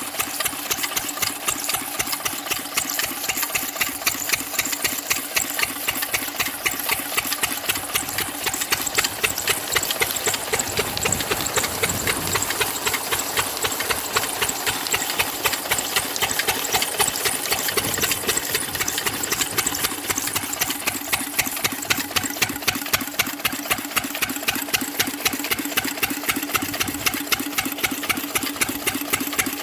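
Small 8 hp single-cylinder stationary diesel engine running steadily, each firing stroke giving a regular, even beat.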